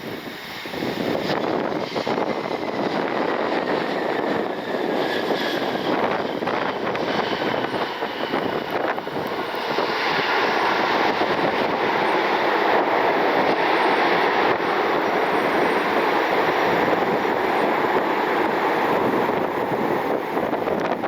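Jet airliner's engines on approach to the runway: a steady rushing noise with a faint whine falling in pitch early on, growing louder about ten seconds in. Gusty wind buffets the microphone throughout.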